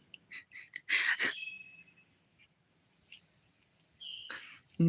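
Crickets chirping in a steady, high-pitched chorus. A brief rustle comes about a second in, and a few faint short chirps sound over it.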